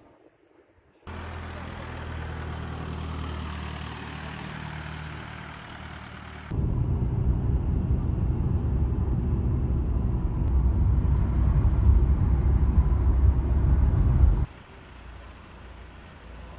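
Vehicle engine running with low road or wind rumble. The sound cuts abruptly about a second in, again about six and a half seconds in, where it turns to a louder low rumble, and once more near the end, where it drops back to quieter.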